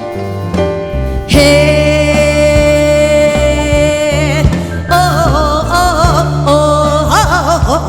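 Korean gugak fusion band playing over bass and drums. A long held melody note ends in vibrato, followed by a wavering, heavily ornamented melody line.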